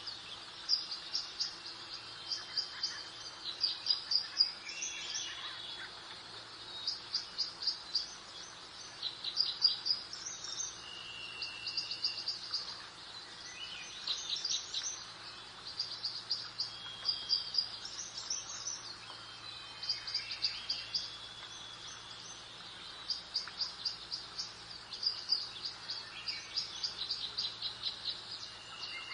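Garden birds singing: short, rapid, high-pitched trilled chirp phrases come every second or two, with brief clear whistled notes in between, over a faint steady background hum.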